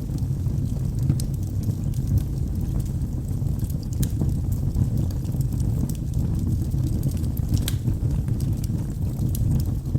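Wood fire burning in a fireplace, with a steady low rumble of the flames and sparse sharp crackles and pops from the logs.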